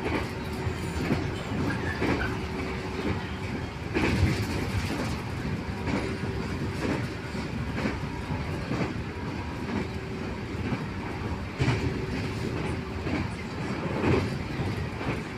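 Local commuter train running between stations, heard from inside the carriage: a steady rumble with clicks of the wheels over rail joints and a faint hum that comes and goes.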